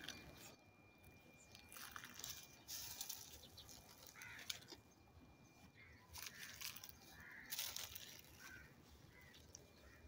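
Near silence: faint outdoor background with a few distant bird calls now and then.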